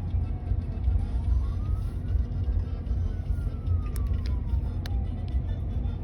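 A siren wailing, its single tone slowly rising and falling over several seconds, over the steady low rumble of a car on the road. A few short clicks come about four to five seconds in.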